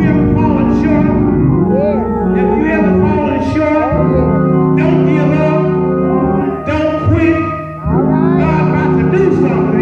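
Church music: sustained keyboard chords with a voice singing over them.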